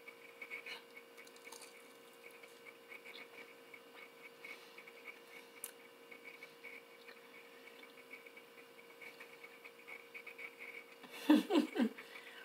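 Close-up mouth sounds of a person chewing a bite of fried chicken coated in crushed Flamin' Hot fries: soft wet smacks and little crunches over a faint steady hum. Near the end comes a short voiced sound in a few quick pulses.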